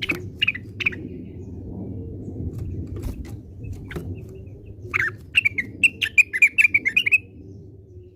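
A cucak wilis, an Indonesian songbird, calling: three short chirps in the first second, then a quick run of about a dozen chirped notes about five seconds in, over a steady low background rumble.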